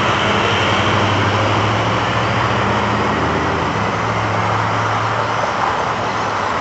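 Steady engine noise: a low hum under an even rush of traffic-like sound, easing slightly about two-thirds of the way through.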